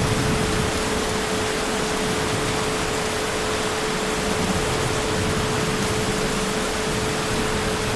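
Heavy rain falling as a steady, even hiss, with a faint constant hum beneath it and no thunder.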